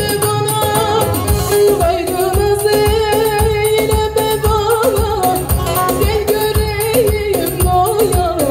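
Turkish folk song performed with a singing melody line over amplified accompaniment and a steady drum beat.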